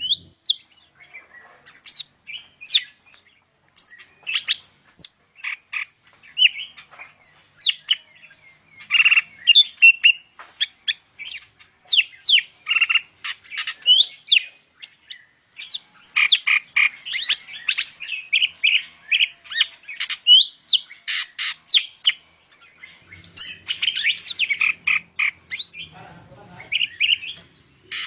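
Cucak ijo (green leafbird) singing a long, fast, varied song of quick chirps, whistled phrases and rapid trills, with a brief pause a little before the end. The song is packed with mimicked phrases ('full isian'), the rich song used to coax other cucak ijo to sing.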